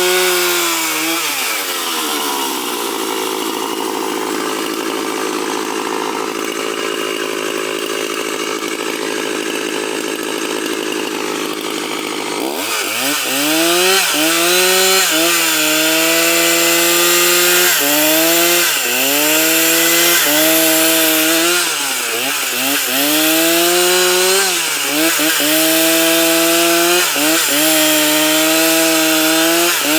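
Two-stroke chainsaw at full throttle that drops to idle about a second and a half in and idles for about ten seconds. It is then throttled back up about 12 seconds in and cuts wood, its pitch sagging and recovering every second or two as the chain loads in the cut.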